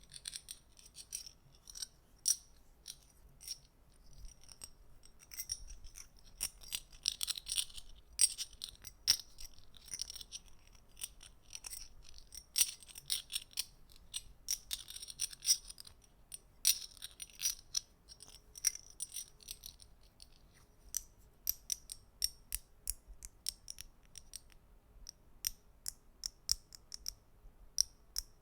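Small hard objects clicking and tapping close to the microphone, irregular crisp clicks that thicken into quick rattling clusters twice and thin out to single clicks near the end.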